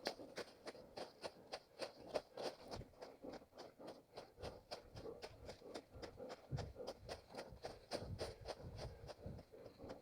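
A runner's footsteps on forest ground, a quick steady rhythm of light footfalls, a few each second.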